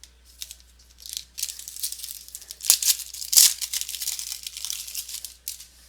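Trading-card pack wrapper torn open and crinkled as the cards are pulled out. There is a run of rustling and crackling with two sharper crackles in the middle.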